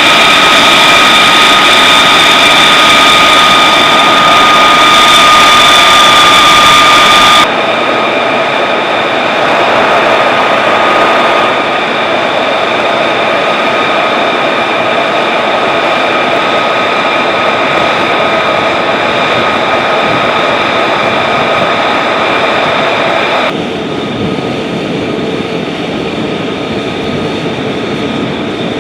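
F-35 Lightning II's jet engine running steadily with a loud high whine of several steady tones over a rushing noise. The sound drops abruptly in level twice, about a third of the way in and again near the end.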